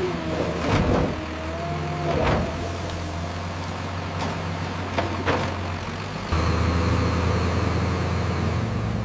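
A motor vehicle engine running steadily, with several sharp clicks and knocks and a short gliding squeak in the first couple of seconds. The engine gets louder about six seconds in.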